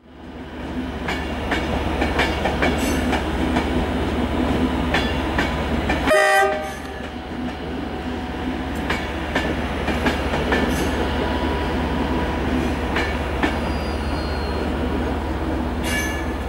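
Locomotive-hauled passenger train, a Mark 3 driving van trailer leading and a Class 67 diesel locomotive propelling from the rear, rolling slowly into a platform. Its steady low rumble is broken by short clicks from the wheels on the rails, and a short horn blast sounds about six seconds in.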